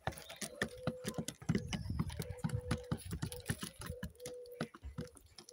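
Pigeons pecking at scattered food, a rapid, irregular clatter of beak taps.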